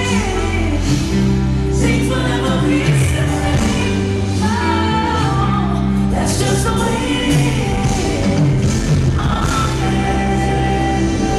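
Live music with a singer: a sung melody over sustained bass notes.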